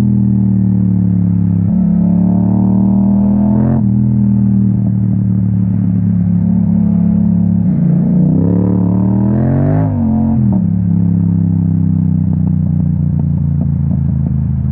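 Yamaha MT-07's parallel-twin engine through an Akrapovic exhaust, heard from the rider's seat while riding. The engine pulls up in pitch and drops on upshifts about two and four seconds in, then revs up sharply around eight to ten seconds before the pitch falls off again.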